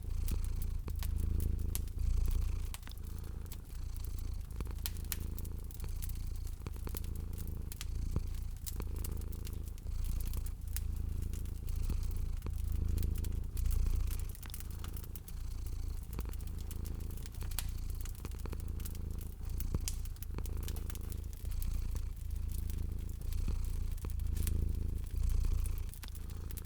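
Domestic cat purring, a low rumble that swells and fades with each breath about every two seconds, with the sharp crackles and pops of a fireplace fire over it.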